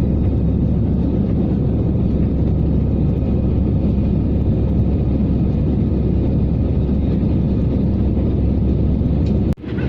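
Steady low rumble of an Airbus A320's CFM56 jet engines and airflow, heard from inside the passenger cabin. The sound drops out briefly near the end, then returns.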